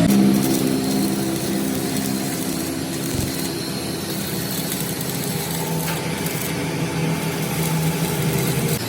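A machine's motor or engine running steadily with a low hum under a noisy rasp.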